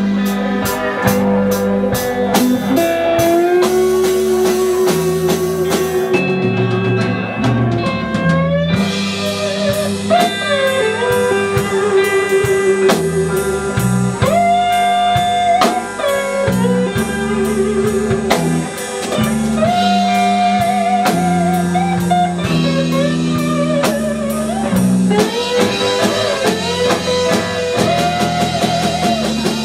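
Instrumental break in a slow blues song: a lead guitar plays held, wavering and bending notes over bass and a drum kit, with no singing.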